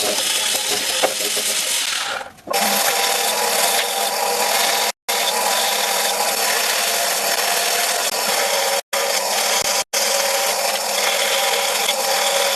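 A woodworking power tool cutting or machining wood, with a steady, dense noise and a faint steady whine. It drops out abruptly for an instant three times and dips briefly about two seconds in.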